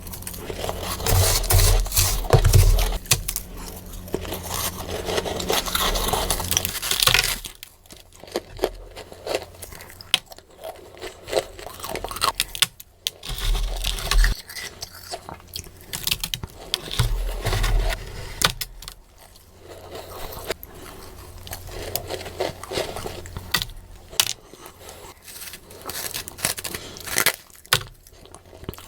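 Freezer frost being bitten and chewed, sped up: a dense run of crunching and crackling for about the first seven seconds, then scattered sharp crunches.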